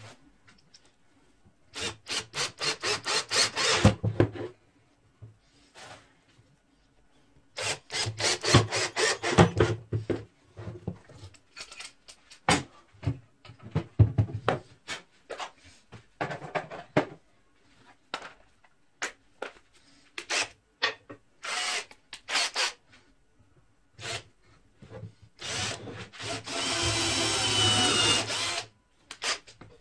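Workshop tool work: two bursts of quick, evenly repeated strokes and scattered single knocks, then a power tool runs for about three seconds near the end.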